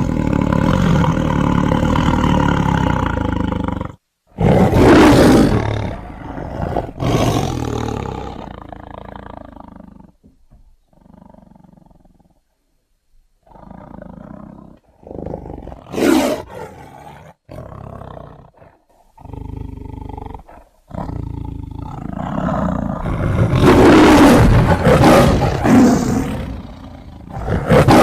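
Big-cat roars and snarls from tiger and sabertooth (smilodon) sound effects, in a series of separate calls. The loudest come about five seconds in and again near the end, with a short pause in the middle.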